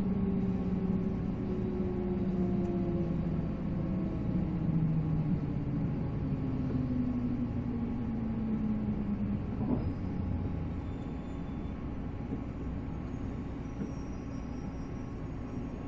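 485-series electric train running, heard from on board: the whine of its MT54 traction motors and gearing falls steadily in pitch as the train slows, over a constant rail rumble. After about ten seconds the falling whine fades out, leaving a slightly quieter rumble with faint high steady tones.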